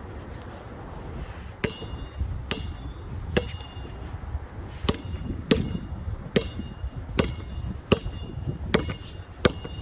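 A basketball being dribbled on hard ground, bouncing steadily a little faster than once a second from about a second and a half in, each bounce with a short ring. Gusty wind rumbles on the microphone.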